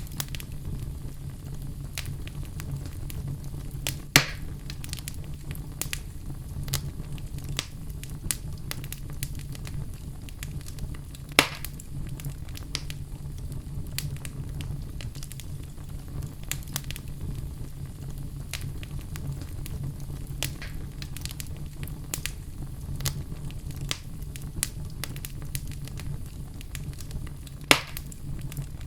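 Wood fire with burning logs crackling: a constant stream of small crackles over a low, steady rumble. Three louder, sharp pops stand out, spread through.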